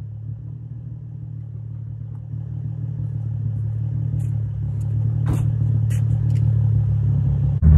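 Infiniti G35 coupe's 3.5-litre VQ35DE V6, fitted with an aftermarket Kinetix intake manifold, idling steadily, heard at the exhaust tip. The idle slowly grows louder, with a few light clicks about halfway through.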